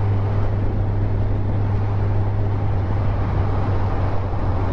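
Motorcycle engine running steadily on the move: a low, even drone with a rushing noise over it.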